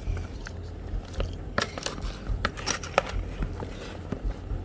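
Scattered light clicks and knocks over a low steady hum.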